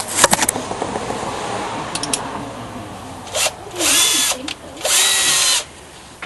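Power drill run in three short bursts, each spinning up quickly and then holding, while a bolt is being driven on a VW engine case; a few metal clicks come just before.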